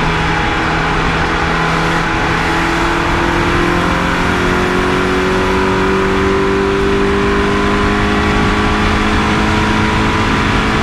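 Rally car's engine pulling hard under full load as the car accelerates along a straight, its pitch climbing slowly and steadily, heard from inside the cabin with loud road and wind noise.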